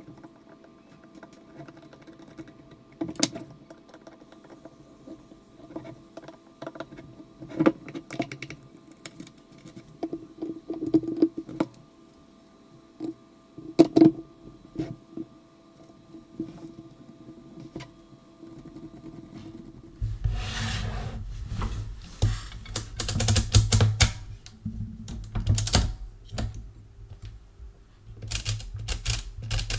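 Clicks and clacks from the metal mechanism of an Original Odhner pinwheel calculator being handled and worked. There are scattered single clicks at first, then about two-thirds of the way through, denser, louder clattering over a low hum.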